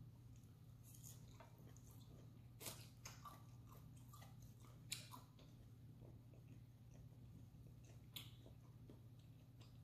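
Faint chewing of pan-fried seafood pancake, with a few soft clicks of chopsticks against the plate and dipping-sauce bowl, over a low steady hum.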